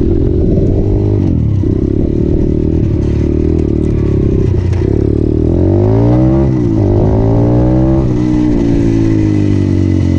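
Motorcycle engine under way, revving up and dropping back sharply several times as it goes through the gears.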